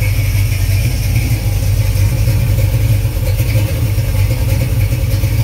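Small-block Chevy 350 bored to 355 with a mild Comp Cams hydraulic flat-tappet cam, idling steadily at about 750 rpm through Summit headers and Flowmaster mufflers.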